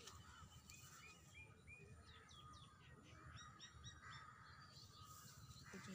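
Faint wild bird calls: a run of short chirps, then a few quick falling whistles and a rapid string of repeated high notes, over quiet outdoor background.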